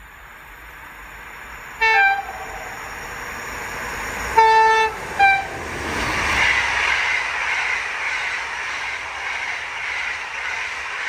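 A train approaching and sounding its horn three times, a short blast, a longer one and a short one, then running past with a loud rushing rumble that holds to the end.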